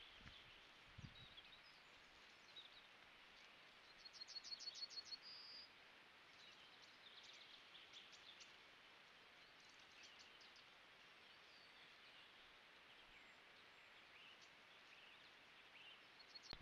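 Faint songbirds calling over a steady hiss. The loudest is a song of about nine quick repeated notes ending in a longer note, about four seconds in; scattered short chirps follow. There are a couple of soft low thumps about a second in.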